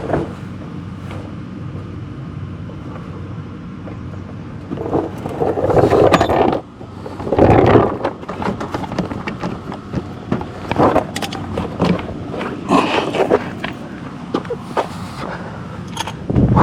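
Scraping and clattering of hand work on the car's front end, with irregular scrapes, clicks and knocks of tools and plastic or metal parts being worked loose.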